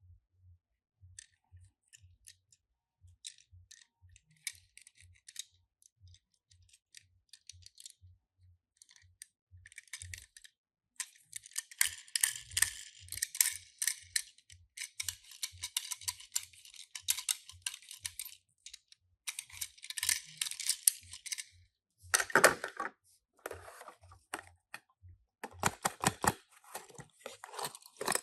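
Die-cast Tomica toy cars and their packaging being handled. Scattered light clicks and taps, then about ten seconds of dense rustling and crinkling from about eleven seconds in, followed by a few sharper knocks near the end.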